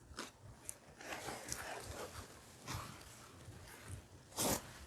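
Soft sniffles and breaths of a person on the verge of tears, with a louder sniff near the end.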